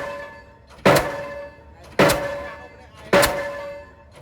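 Delmag D46-32 diesel pile hammer driving a PHC concrete pile: three heavy blows a little over a second apart, each with a metallic ringing clang that dies away before the next.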